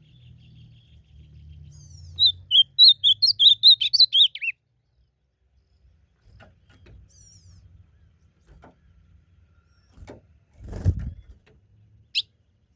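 Ultramarine grosbeak (azulão) singing one fast, warbled phrase of quick rising and falling notes lasting about two seconds, starting about two seconds in. A low thump follows near the end, then a single short high note.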